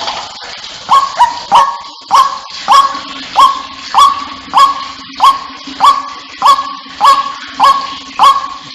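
White-breasted waterhen calling over and over: a loud, harsh 'kru-ak' note repeated about every half second, each note jerking sharply up in pitch and then held briefly.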